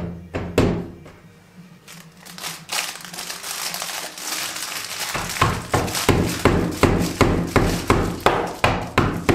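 Small hammer tapping steadily on door hardware, about three light blows a second, starting about halfway through; before that, a rustling hiss.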